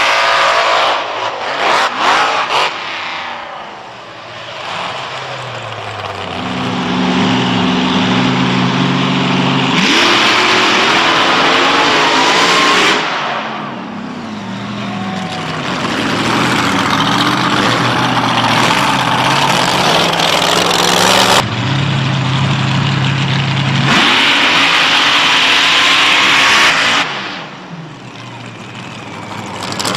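Big racing engines running hard and revving, with stretches held at a steady speed; the sound jumps abruptly several times between loud full-throttle running and quieter running.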